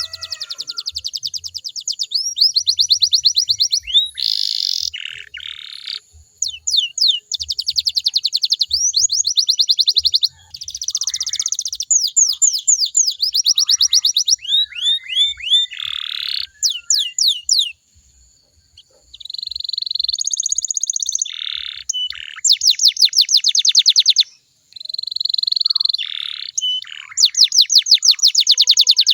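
Domestic canary singing: fast rolls of rapidly repeated notes and quick trills that change every second or two, broken by two short pauses in the second half.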